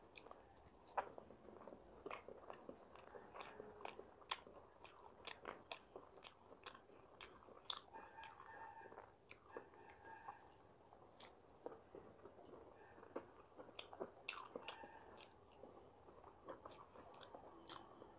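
Faint close-up eating sounds: a person chewing a mouthful of masala dosa, with many small wet mouth clicks and smacks at an irregular pace.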